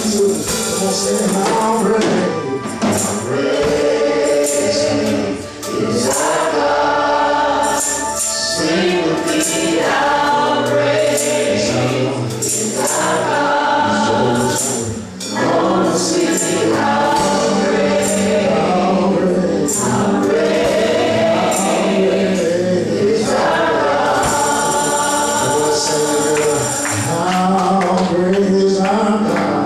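Gospel choir singing with a tambourine shaking along to the beat.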